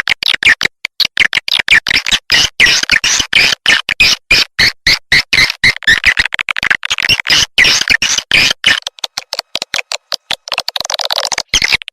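Swiftlet calling sound: a dense, rapid chatter of high chirps and clicks, many per second, of the kind played from swiftlet houses to lure the birds in to roost and nest.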